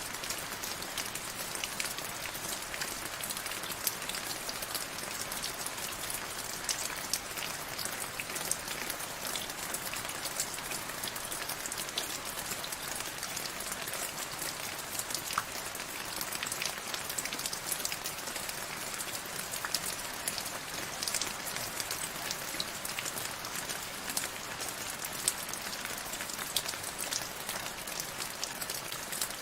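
Steady rain falling, with a constant hiss and many close drops pattering in fine, dense clicks.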